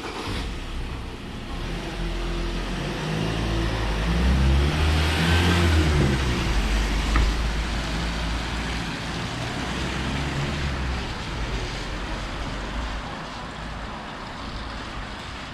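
A motor vehicle passing close by: engine and tyre noise swell to a peak about five seconds in, then slowly fade.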